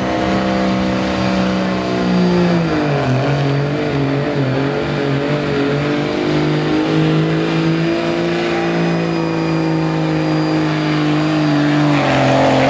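Diesel pickup truck engine running at full throttle under heavy load, pulling a weight-transfer sled. The revs sag about two seconds in, then hold and climb a little before dropping again near the end.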